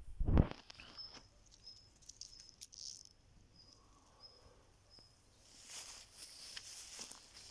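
Footsteps rustling through dry fallen leaves, with a thump at the start and a bird's short, thin, high notes repeating about twice a second before the rustling picks up.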